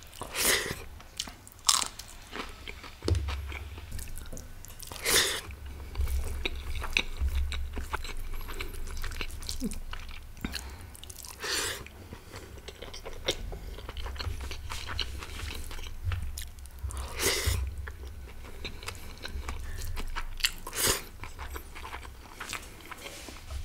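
Close-miked person chewing and biting food with open-mouthed eating sounds, with a few louder crunchy bites spread through.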